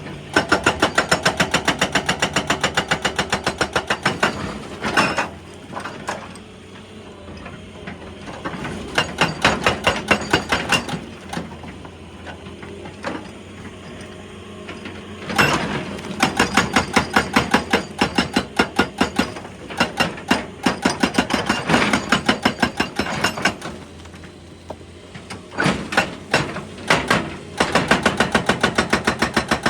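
Excavator-mounted hydraulic rock breaker hammering rock with rapid, evenly spaced blows. The blows come in runs of a few seconds, and the excavator's engine runs steadily in the pauses between them.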